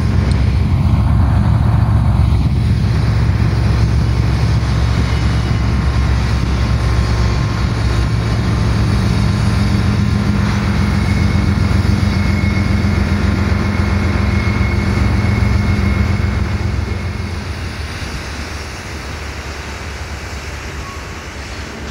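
Norfolk Southern diesel locomotives passing with a loud, steady engine rumble, joined by a thin high whine from about ten seconds in. The rumble fades after about sixteen seconds, leaving the lighter rolling noise of loaded coal hoppers going by.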